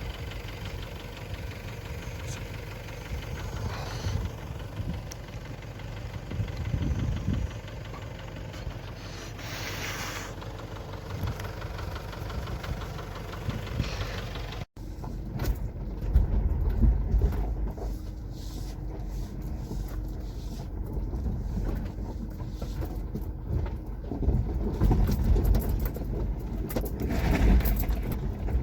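A vehicle engine running steadily, heard along with road noise. About halfway, after a cut, gusts of wind buffet the microphone.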